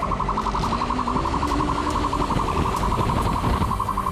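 Police car siren wailing in a fast pulsing warble, about ten pulses a second at an unchanging pitch, over the rumble of the patrol car's engine and road noise.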